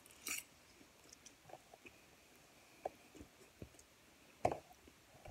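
A forkful of instant ramen noodles sucked into the mouth with a short slurp, then faint chewing with small wet mouth clicks, and one louder smack about four and a half seconds in.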